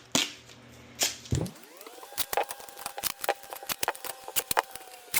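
A run of sharp clicks and crackles while the sink drain is being covered up, ahead of blowing out a clogged condensate line. A steady whine rises in pitch about a second and a half in, holds, and falls away near the end.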